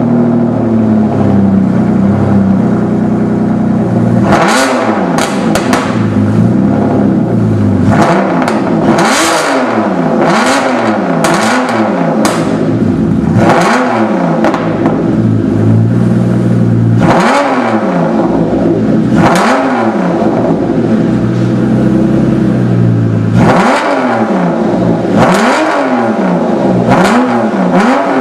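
Aston Martin Vanquish V12 through an aftermarket stainless performance exhaust, idling steadily for a few seconds and then blipped repeatedly, each rev rising and falling quickly back toward idle, over a dozen times with short pauses between.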